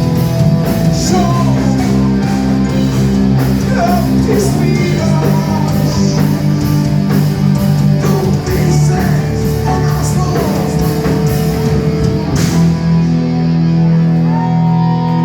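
Live rock band playing loud, with a singer, distorted guitars and a steady drum beat. About twelve seconds in, the drums stop and a held chord rings on.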